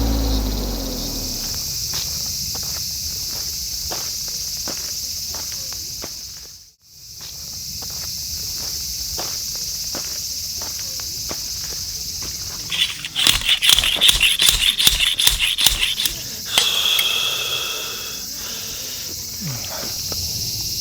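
Steady chorus of insects chirring, broken by a brief drop almost to silence about seven seconds in. From about thirteen to sixteen seconds a quick run of loud sharp clicks and crunches sounds over it.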